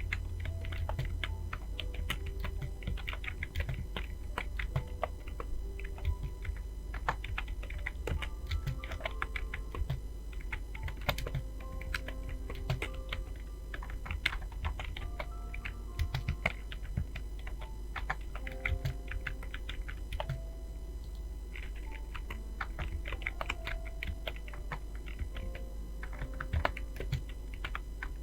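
Fast, irregular typing on a computer keyboard, keystrokes clicking steadily throughout. Faint background music of short melodic notes plays under it, with a low steady hum.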